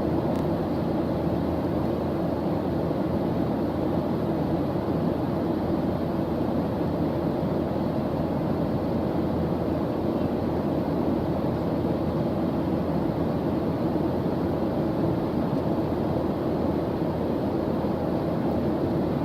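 Steady white-noise background track: an even, deep rushing hiss that does not change.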